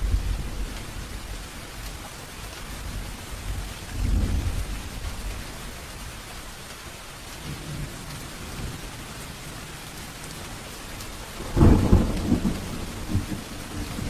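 Steady rain with thunder rumbling low: one roll about four seconds in and a louder, sharper thunderclap about twelve seconds in, the loudest moment.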